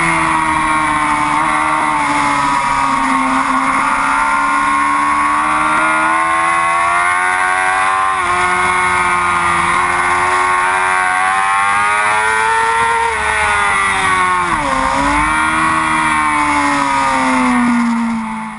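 Yamaha R6 race bike's inline-four engine held at high revs, its pitch sweeping up and down through the gears. About fifteen seconds in the revs drop sharply and climb again. The sound cuts off abruptly at the end.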